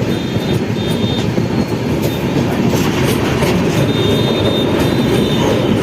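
Moving train: a steady rumble of wheels running on the rails, with a faint high-pitched squeal coming and going.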